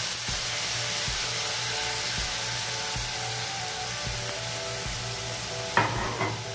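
Chicken, liquid and freshly added soaked rice sizzling steadily in a nonstick pan over a gas flame. A short loud clatter of the spoon against the pan comes about six seconds in.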